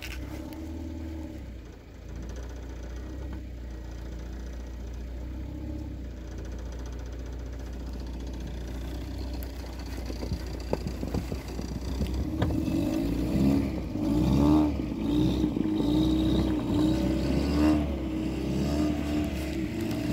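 Toyota Corolla's worn-out engine running, then revving harder from a little past halfway as the car pulls away through snow, its pitch wavering up and down. The muffler is falling apart.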